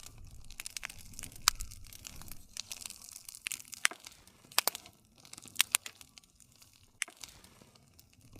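Wood fire crackling: irregular sharp pops and snaps of burning wood over a soft hiss, the low rumble dropping away in the second half.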